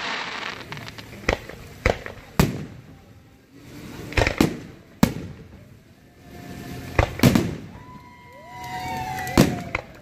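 Aerial fireworks shells launching and bursting in about nine sharp, unevenly spaced bangs. A burst of crackling comes right at the start.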